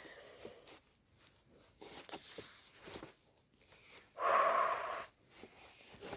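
A person's breathy exhale, about a second long, about four seconds in, among faint clicks and rustles.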